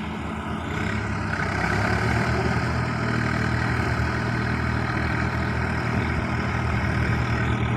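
Tractor engine revving up about a second in, then running steadily at higher revs under load as the tractor strains to pull free of deep field mud.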